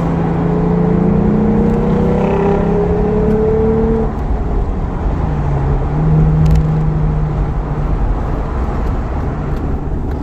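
Lexus IS350's 3.5-litre V6 through an F-Sport axle-back exhaust with Flowmaster high-flow secondary cats and a Vibrant resonator, heard from inside the cabin while accelerating, over steady road and tyre noise. The engine note rises, drops about four seconds in at a gear change, climbs again and then holds steady.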